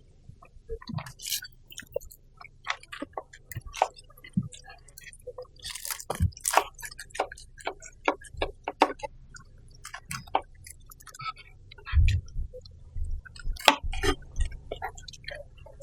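Close-miked eating: a person chewing and crunching crispy fried pork chop, with irregular wet crackles and mouth smacks. There are a few dull low bumps a little after two-thirds of the way through.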